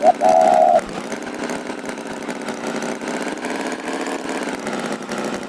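Tractor engine sound effect running steadily at idle. In the first second a short rising note is followed by a held, louder pitched tone.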